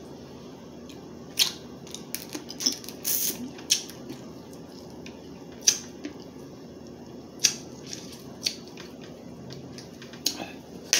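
Crab leg shells being cracked and picked apart, heard as scattered sharp cracks and clicks close to the microphone, with eating sounds between them.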